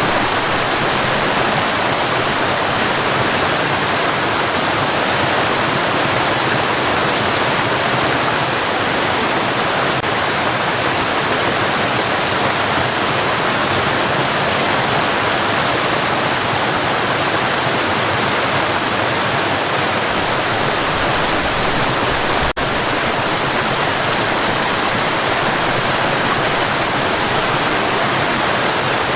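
Steady white noise, an even hiss with no pitch or rhythm, with one momentary dip in level about three quarters of the way through.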